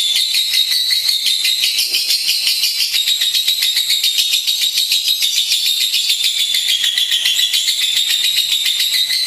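Lovebird singing a continuous, very rapid high-pitched trilling chatter without a break, wavering slightly in pitch.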